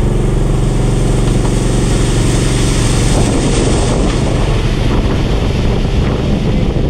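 Concrete mixer truck's diesel engine running steadily at raised revs while it discharges concrete. From about three seconds in, a rushing noise rises over the engine.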